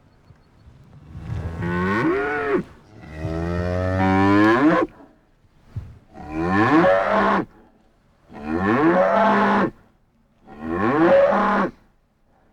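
Cows mooing: five long, drawn-out moos in a row, each rising and then falling in pitch, with short pauses between them.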